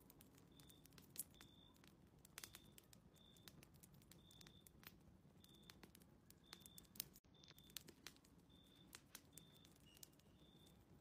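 Very faint fireplace crackling: scattered sharp pops and clicks, with short high chirps repeating about once a second.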